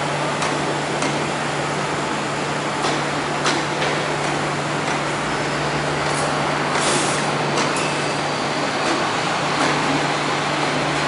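MTR Tsuen Wan line electric train running, a steady noise with a low hum, a few sharp clicks and a short burst of hissing air about seven seconds in.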